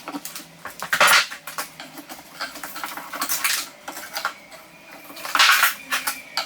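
Hard objects clattering and knocking as tools and wood are handled, with louder clatters about a second in and around five and a half seconds in.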